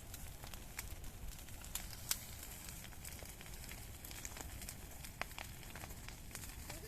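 Bonfire of junk crackling, with irregular sharp pops and snaps, the loudest about two seconds in, over a steady low rush.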